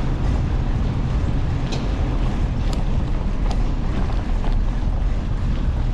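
Steady rushing wind buffeting the microphone of a mountain bike rolling along a trail, with a few faint small ticks.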